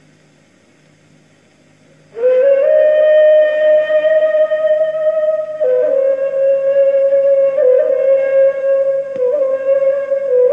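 A ney, the end-blown reed flute, comes in about two seconds in and plays long held notes. The first note slides up into pitch, and the melody then steps down a little and moves between nearby notes.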